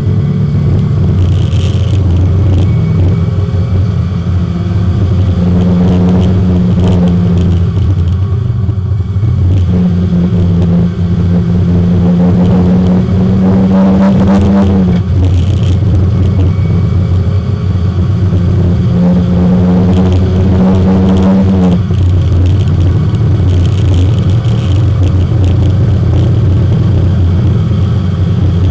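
Porsche 924 race car's four-cylinder engine heard from inside the cabin, running hard at speed on track. The engine note climbs and then drops sharply about 15 seconds in and again about 22 seconds in, as the driver shifts or lifts for a corner.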